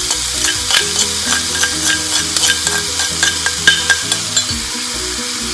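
Spatula scraping and knocking against a stone mortar (cobek) with repeated short clicks, as coarsely blended chilli is pushed out into a pan. Shallots and garlic sizzle steadily in hot oil underneath.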